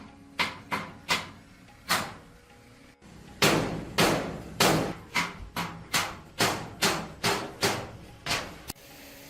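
A hammer striking repeatedly during a heavy truck tyre change, about two blows a second, each with a short ringing tail. There is a brief pause about two seconds in, then a louder run of blows.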